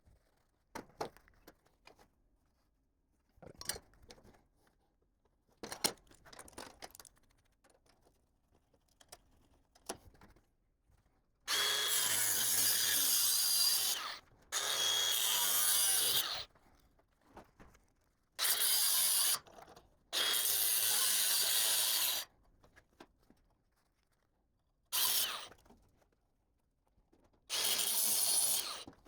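A handheld power tool cutting steel tubing in repeated bursts of a second or two, stopping and starting about six times, after some light clicks of handling the metal.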